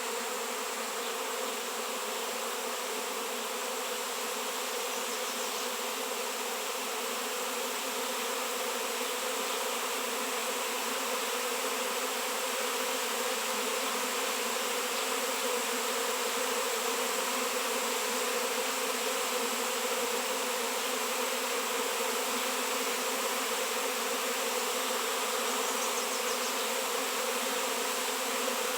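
A swarm of honey bees buzzing: a dense, steady hum of many bees at once, growing slightly louder over the stretch.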